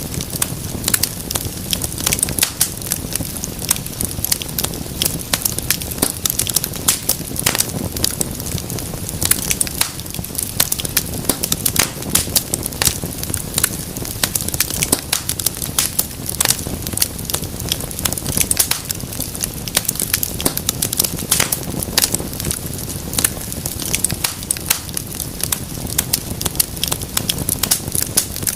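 Wood fire crackling and popping steadily, with many sharp snaps over a low rumble of flame.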